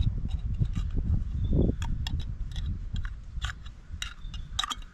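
A person chewing a mouthful of food close to the microphone, with scattered small sharp clicks from handling the food and utensils.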